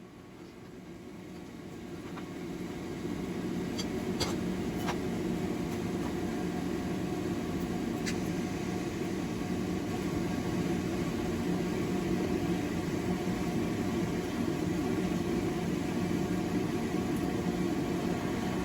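Steady mechanical hum of a motor running in a blacksmith's shop. It builds up over the first few seconds and then holds steady, with a few faint clicks now and then.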